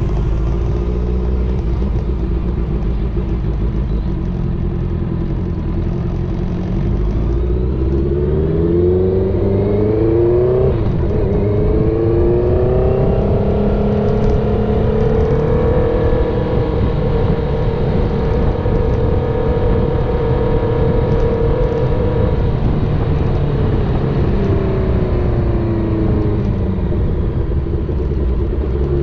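Honda CBR650R inline-four through a full aftermarket exhaust, accelerating and shifting up. The engine note climbs through a gear change about a third of the way in, holds steady at cruising speed, then drops as the bike slows and starts climbing again at the very end.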